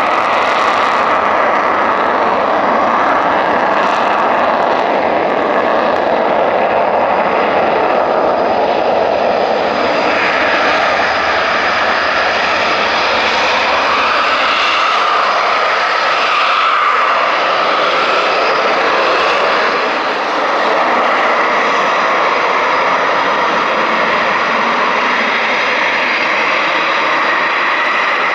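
Eurofighter Typhoon jet engines running, a loud, steady jet noise with a faint high whine that shifts a little in pitch.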